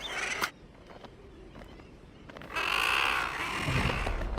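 A common guillemot calling: one loud call lasting about a second, a little past halfway through. A low rumble begins near the end.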